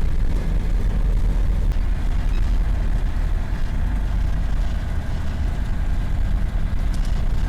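SP30 ultralight aeroplane running steadily, heard from inside the cockpit as a loud, even low rumble of engine, propeller and airflow.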